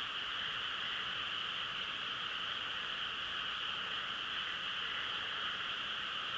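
Dense frog chorus over rain: many calls merge into one steady, even drone with no single call standing out.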